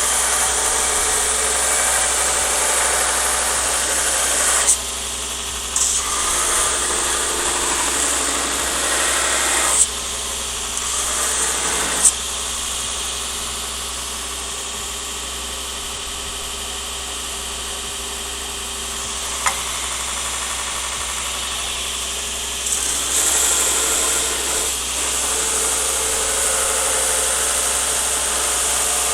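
Steady, loud workshop machine noise with a hiss-like top. Its texture changes abruptly a few times, with a few sharp clicks.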